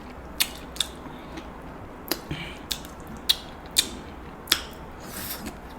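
Steamed king crab shell being cracked and snapped apart by hand: a string of sharp, irregular cracks and clicks.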